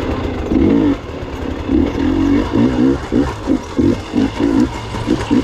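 Gas Gas EX 300 two-stroke dirt bike engine under riding, its throttle blipped in quick short bursts, about three a second through the second half.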